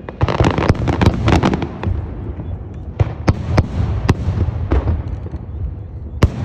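Fireworks display: a rapid run of sharp bangs and pops over a continuous low rumble and crackle, with the densest cluster in the first two seconds and single loud reports about three and six seconds in.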